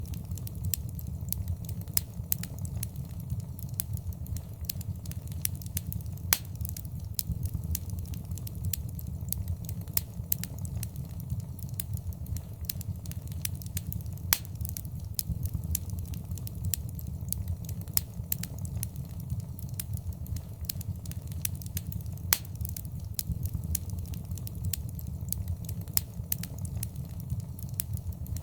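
Fireplace fire crackling, with a constant stream of small sharp pops and a few louder snaps over a low steady rumble of the flames.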